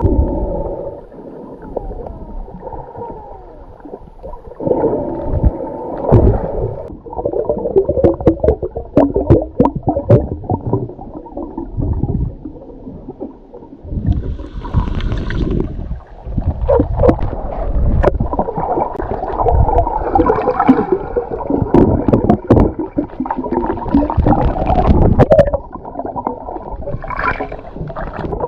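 Muffled water sloshing and gurgling around a camera held under the surface while snorkeling, with many sharp clicks and ticks through it and louder swells of churning water in the second half.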